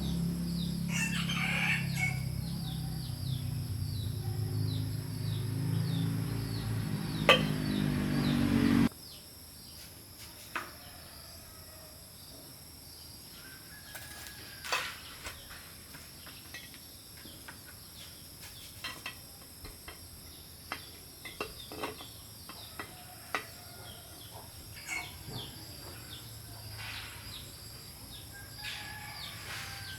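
A machine's motor running with a steady low hum, then cutting off abruptly about nine seconds in. Scattered light clicks and taps follow.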